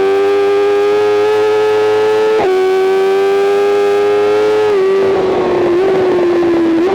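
BMW M 1000 RR's inline-four engine at high revs under full throttle, pitch climbing, with a quick upshift about two and a half seconds in. Near the middle the throttle closes: the engine note falls slowly with a rough crackle, and two short blips of the revs come as the bike downshifts for a corner.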